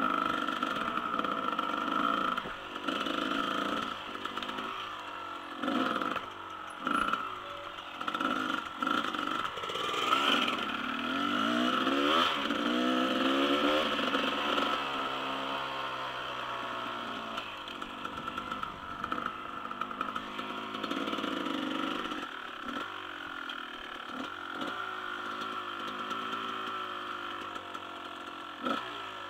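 Dirt bike engine revving up and down as the bike is ridden, its pitch repeatedly rising and falling, with scattered knocks and clatter.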